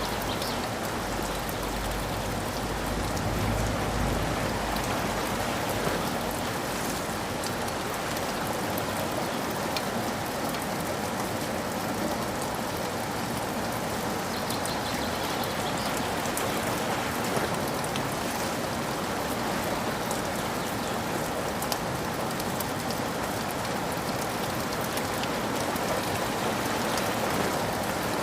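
Steady rainfall, an even hiss of drops pattering on surfaces, with a low rumble in the first few seconds that fades out.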